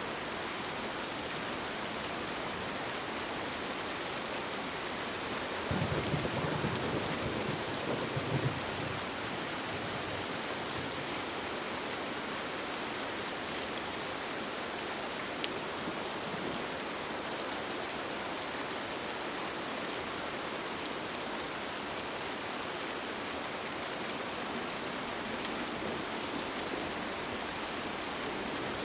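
Steady rain with scattered faint drop ticks. About six seconds in, a low rumble of thunder swells and fades over about three seconds.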